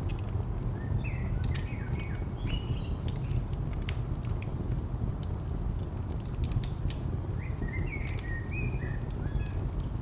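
Layered ambience: a steady low rumble of distant traffic, scattered crackles and pops of a wood fire, and a small bird chirping in two short flurries, about a second in and again near the end.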